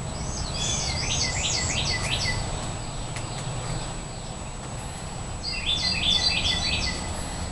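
A songbird singing two phrases of quick, repeated down-slurred notes, one starting just after the beginning and lasting about two seconds, the second about five and a half seconds in.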